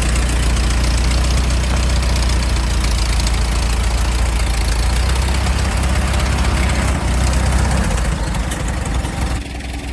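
An engine running steadily at idle, with a strong low hum; it eases off near the end.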